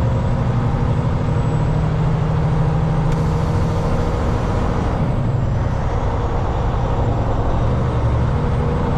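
Cummins X15 diesel engine of a Kenworth W900L semi truck running steadily on the road, a low drone heard inside the cab with road noise.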